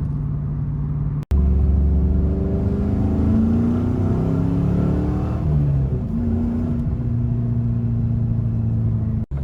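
Pontiac Firebird Trans Am WS6's V8 engine pulling hard, its note rising through the revs, then dropping back at a gear change and running at steady speed.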